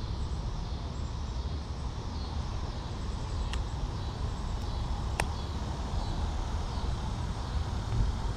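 Outdoor ambience: a steady low rumble with faint bird chirps, and a few sharp clicks about halfway through.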